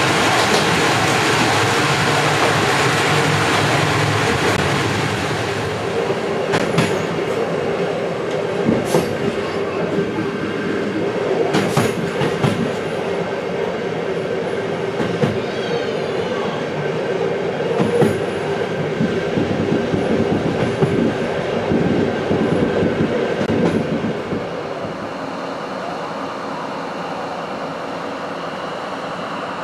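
Train running on the rails: a steady rumbling rush with a low hum, and the wheels knocking sharply over rail joints at irregular intervals. The sound eases off and settles lower near the end.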